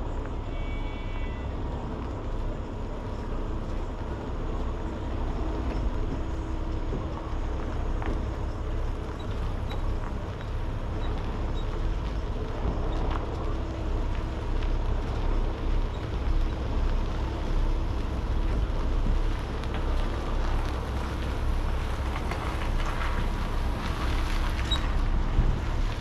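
Steady low rumble of engine and road noise from inside a semi-truck's cab while it drives at road speed.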